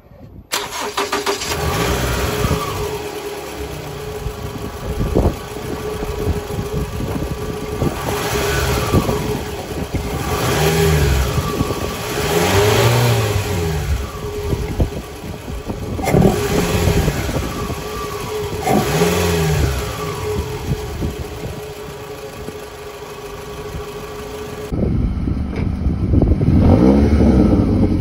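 Engine of a 20-series Toyota Vellfire fitted with a SATISFACTION carbon-chamber air intake, revved up and back down again and again from idle, each blip rising and falling, over a steady tone. About three seconds before the end the sound changes to the exhaust at its Rosso Modello Colbasso Ti-C muffler, still revving.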